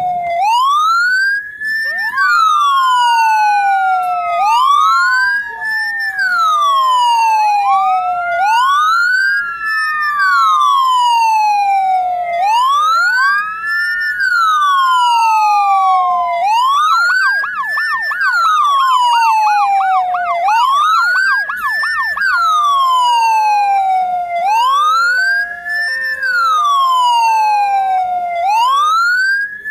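Ambulance siren wailing, rising and falling in a slow cycle about every four seconds, with a second siren sweep overlapping near the start. About halfway through it switches briefly to a fast warble, and near the end a two-note hi-lo tone alternates beneath the wail.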